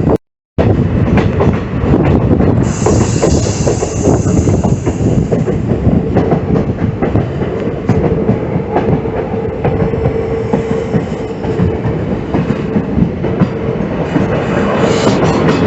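Train running along the rails, its wheels clattering over the track joints over a steady rumble, with a faint squeal from the wheels partway through. The sound cuts out for a moment right at the start.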